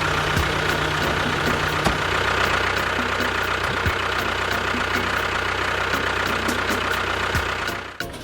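A motor running steadily with a hum and a faint, regular ticking, cut off abruptly near the end.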